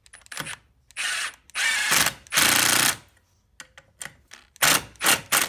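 A tool working on the engine in short bursts: three longer bursts in the first few seconds, then three quick ones near the end.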